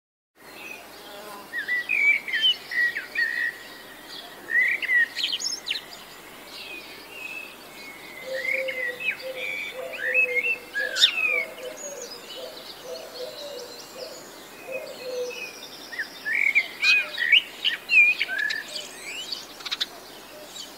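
Songbirds singing outdoors: many short, quick chirps and whistled notes, busiest near the start and near the end, with a lower wavering call running through the middle.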